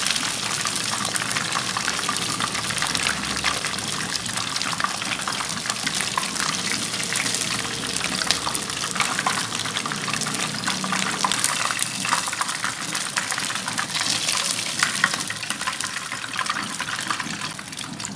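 Fish pieces shallow-frying in hot mustard oil in a non-stick wok: a steady sizzle thick with fine crackling pops.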